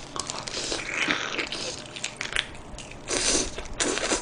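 Close-miked biting and chewing of a sauce-glazed fried chicken drumstick: crackly crunches and wet mouth clicks, with two louder bursts of mouth noise near the end.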